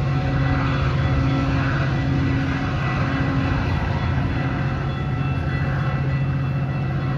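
Metra commuter train's diesel locomotive running, a steady low engine drone with a tone above it that pulses on and off about once a second.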